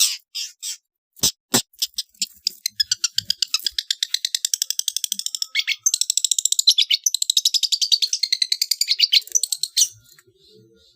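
Long-tailed shrike (cendet) giving its 'trotol' call: a fast, even rattle of high notes, about ten or more a second, starting about two seconds in and stopping shortly before the end. A few separate sharp notes and two short clicks come before it.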